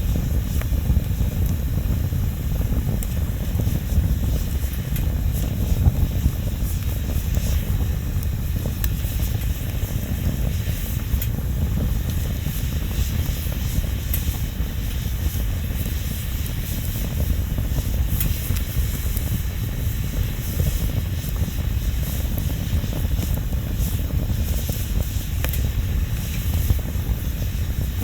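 Wood bonfire burning: a steady low rumble under frequent small crackles and pops.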